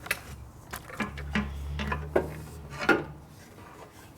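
Metal clinks and knocks of hand tools and bolts against the motorcycle's frame and parts as a tank-mounting bolt is worked into place: about half a dozen sharp clinks, the loudest near the end. A low hum sounds under them through the middle.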